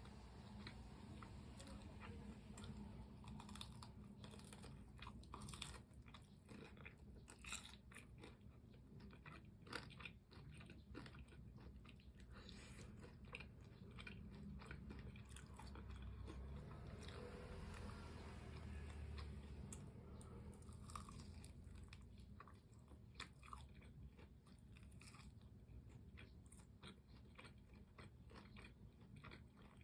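Close-up, fairly faint crunching and chewing of crispy fried chicken, with many short, crisp bites throughout.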